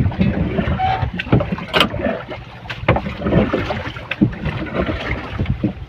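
Wind rumbling on the microphone, with irregular knocks and clatter from handling on a small boat. No engine is running.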